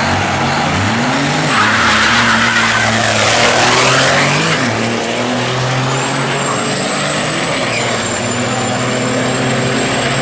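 Diesel racing trucks running hard in a drag race: engines revving up, a loud rush of noise as they pass about two seconds in, and a high steady whistle that sets in and holds.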